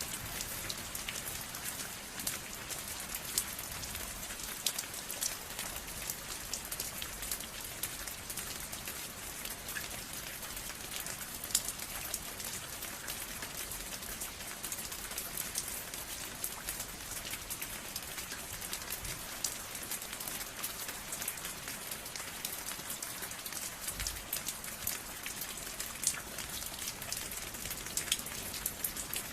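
Steady rain falling on a surface: a constant hiss dense with the small sharp ticks of individual drops, with no thunder.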